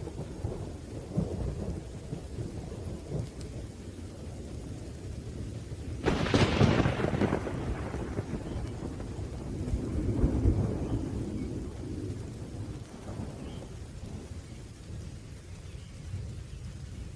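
Thunderstorm: steady rain with deep, rolling thunder rumbling throughout. A sharp, loud thunderclap breaks about six seconds in and rolls off, and a further swell of rumbling follows a few seconds later.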